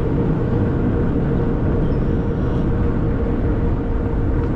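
Steady rush of wind and road noise while riding a fat-tire folding e-bike, with a faint steady whine that fades about two seconds in.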